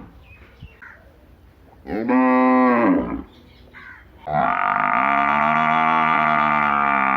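Bovine mooing: a short moo that rises and falls in pitch about two seconds in, then a long, steady, held moo starting about four seconds in.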